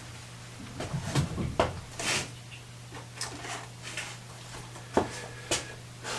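Workshop handling sounds: scattered small knocks, clicks and brief rustles as materials and tools are picked up and set down, over a steady low hum.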